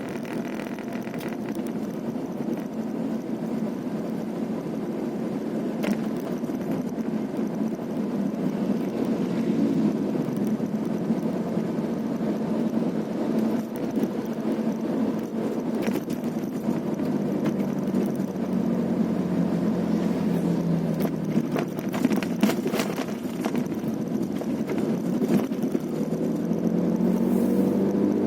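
A road vehicle's engine running steadily while driving, its pitch changing about two-thirds of the way through and rising near the end as it speeds up. A few sharp knocks are heard along the way.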